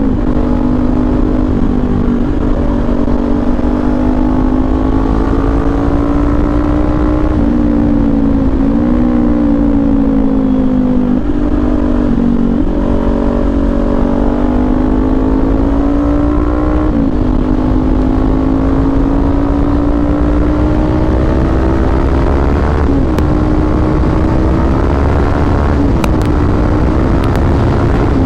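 Kawasaki Ninja 400 parallel-twin engine through an SC Project aftermarket exhaust, running at steady cruising revs, the pitch holding level apart from a few brief dips.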